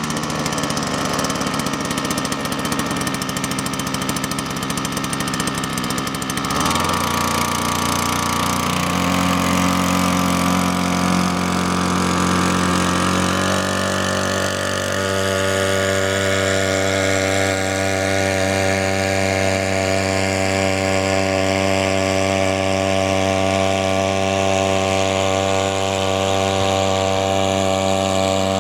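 Homemade outboard boat motor built on a Chinese brushcutter engine, just pull-started and running. Its speed shifts in a few steps over roughly the first fifteen seconds, then it runs steadily.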